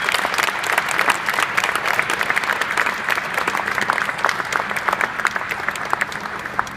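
Audience applauding, dense steady clapping that thins out near the end.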